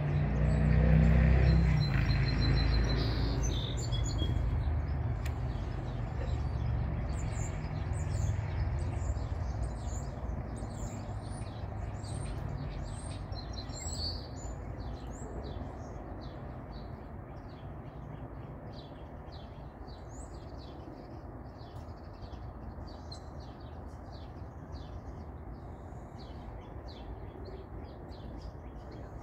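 Small birds chirping, with many short high chirps repeated throughout. Underneath is a low rumble that is strongest in the first few seconds and then dies down.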